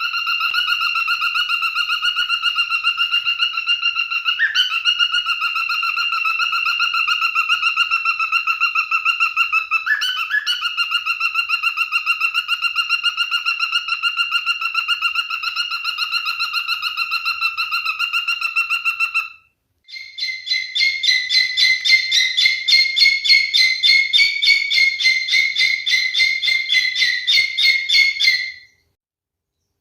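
A rapid, bird-like trilled whistle held on one steady pitch for about twenty seconds. It breaks off, and after a short gap a higher trill runs for about eight seconds, then stops suddenly near the end.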